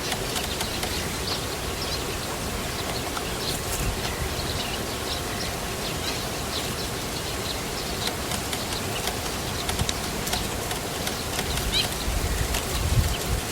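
Birds chirping outdoors: many short, high chirps scattered throughout over a steady background hiss, with a few low bumps near the end.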